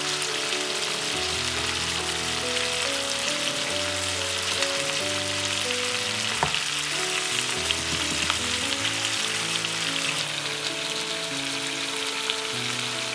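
Chicken wings sizzling and crackling in hot oil in a non-stick frying pan, with a spatula knocking against the pan once about six seconds in. Near the end the sizzle becomes softer as the sound changes to vegetables frying gently. Soft background music with held notes plays underneath.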